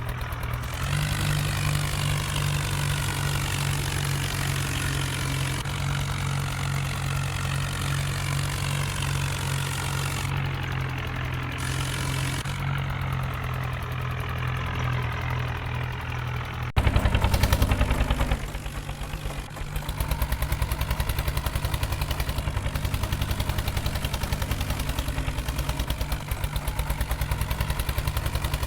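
New Holland 4x4 tractor's diesel engine running steadily with an even firing beat. About 17 seconds in the sound cuts abruptly to a louder stretch of a second or so before settling back to the steady running.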